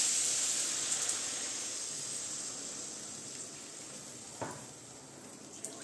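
Garlic and spice masala sizzling in hot oil in a pan, the sizzle slowly dying down, with a single light knock about four and a half seconds in.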